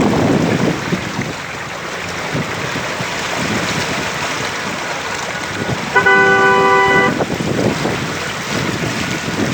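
A vehicle horn sounds once, a steady blast of about a second, roughly six seconds in. Underneath it is a steady rushing noise.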